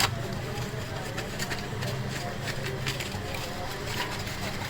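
Workshop machinery running with a steady low hum, with scattered small sharp clicks and taps from work on the gasket metal, and faint voices behind.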